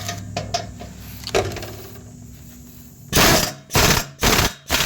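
Hand ratchet wrench clicking in quick repeated strokes, about two a second, starting about three seconds in, as the muffler's mounting nuts are run down. Lighter metallic clicks of tool handling come before it.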